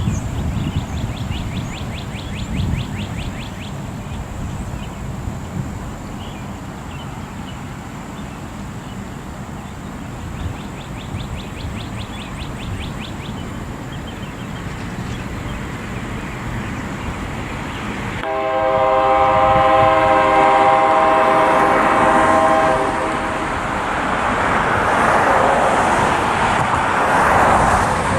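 Diesel locomotive air horn, a multi-chime K3LA on a CN SD60, sounding a long blast about two-thirds of the way in and starting again near the end, over low wind noise and a faint ticking trill.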